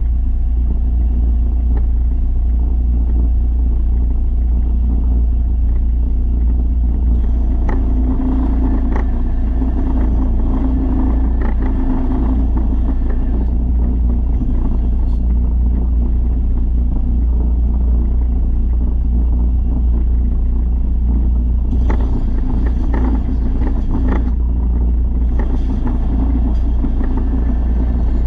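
A motor running steadily with a loud low rumble, with a few spells of added hissing noise partway through and near the end.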